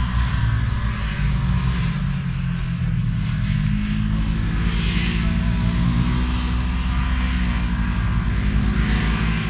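Ram 1500 pickup truck on the move: a steady low engine drone with road and wind noise.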